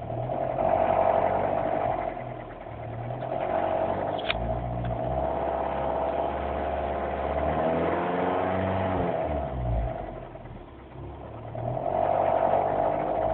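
Mini's engine running just after a cold start, with a rattle that swells and fades every few seconds. The engine note rises and falls once around the middle.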